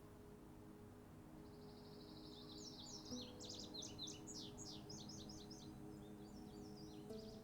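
Faint songbird singing: a fast buzzy trill begins about a second and a half in, then runs into a rapid string of varied, quick chirping notes. Soft sustained music tones sit underneath.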